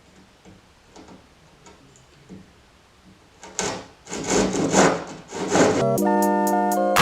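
Hand pull saw cutting wood: faint light strokes at first, then from about halfway in several much louder back-and-forth strokes. Electronic background music starts near the end.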